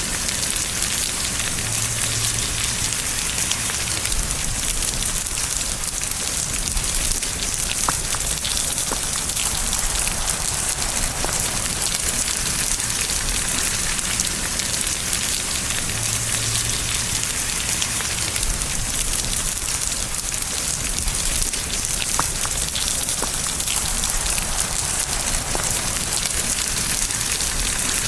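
Steady rain falling: an even hiss of rain on surfaces, with a few sharper drop ticks here and there.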